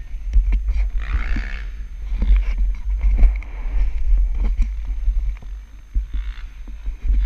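Motocross dirt bike out on a dirt track, with heavy wind rumble on the microphone and many short knocks and bumps. The engine note swells and rises briefly about a second in and again around six seconds in.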